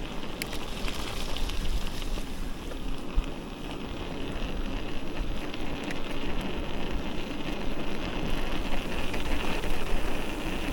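Steady rushing noise from wind on the microphone and tyres rolling over the trail while an electric mountain bike is ridden.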